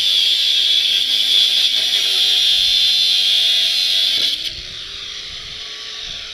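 A power cutting tool cutting through a steel bike-frame tube with a steady high-pitched screech. About four seconds in the cutting noise stops and the motor runs on unloaded, its pitch rising and then holding.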